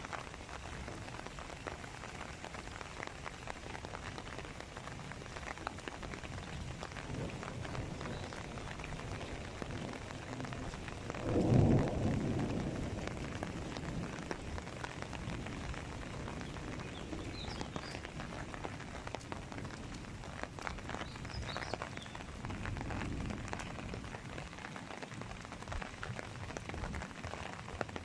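Steady rain falling, an even hiss with scattered drops. About twelve seconds in a low rumble of thunder swells up as the loudest sound, then fades over a couple of seconds; a fainter rumble comes later.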